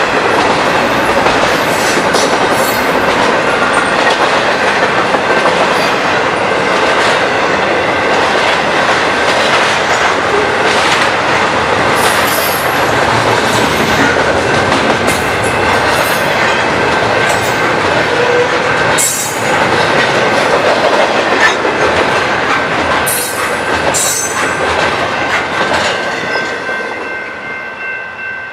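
Train cars rolling past a grade crossing close by: a steady rumble with sharp clicks of wheels over rail joints and a thin wheel squeal, fading off over the last couple of seconds.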